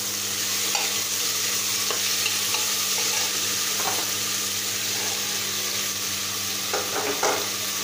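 Chopped capsicum and onion sizzling in hot oil in a pressure cooker, stirred with a spatula that scrapes and knocks against the pan a few times, most clearly near the end. A steady low hum runs underneath.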